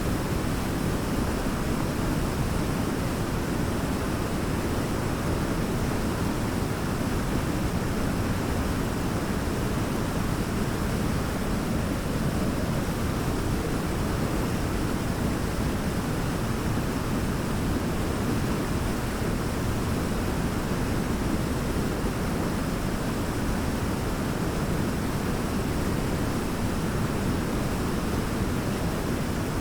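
Large waterfall: a steady, dense rush of falling water, heaviest in the low range, unchanging throughout.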